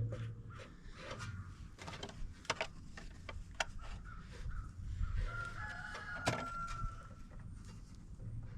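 A new spin-on oil filter being screwed on by hand: scattered small clicks and scrapes of metal and plastic. About five seconds in, a rooster crows once in the background.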